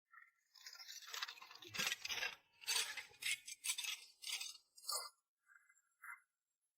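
Rough scraping and clinking of hard objects in a run of uneven strokes, loudest around the second and third seconds, with a few short chirps before and after.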